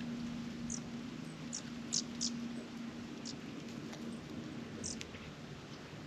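Short, very high chirps, about six spread over a few seconds, the two loudest close together about two seconds in, over a steady low hum.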